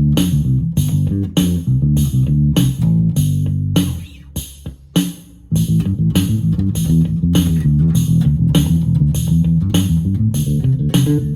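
Electric bass played through a Roland Micro Cube Bass RX amp, an improvised bassline over the amp's built-in rhythm box drum pattern. The bass drops out for about a second and a half near the middle, then comes back in.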